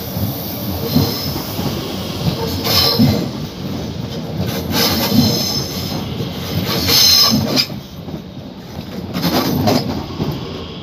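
DB class 442 Talent 2 electric multiple unit running past, its wheels squealing in high-pitched flare-ups about five times over the rolling rumble, with uneven knocks from the wheels on the track.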